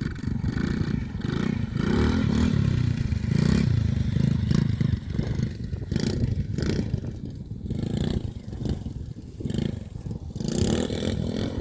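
RC quad bike being driven over loose gravel: its motor running under throttle in uneven surges, with clattering and scraping from the ground.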